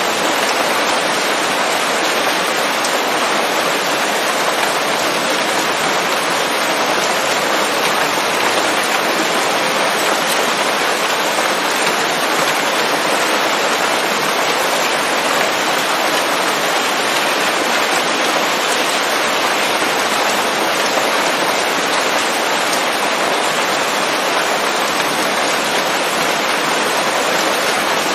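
Steady rain falling on leaves, a dense, even hiss of drops.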